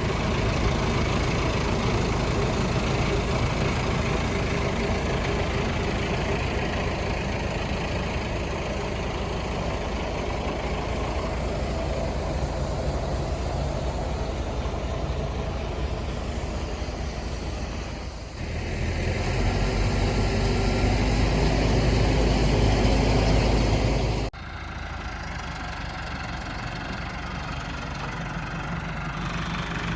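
Tractor engine running steadily. About two-thirds of the way through, the sound suddenly turns louder and deeper; a few seconds later it drops abruptly to a quieter run.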